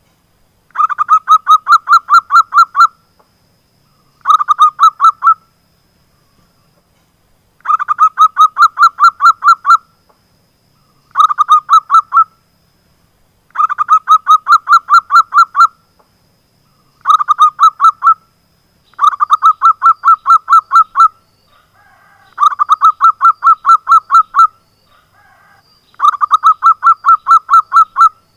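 Zebra dove (perkutut) calling: nine bursts of rapid, evenly repeated staccato notes, about five a second, each burst lasting one to two seconds with short pauses between, played as a lure call.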